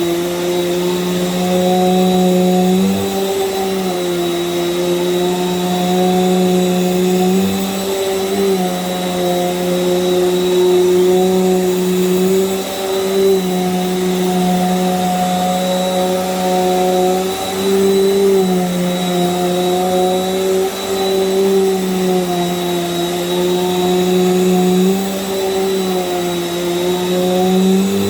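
Small Bissell vacuum cleaner running steadily on a rug, its motor hum dipping slightly in pitch and recovering every couple of seconds.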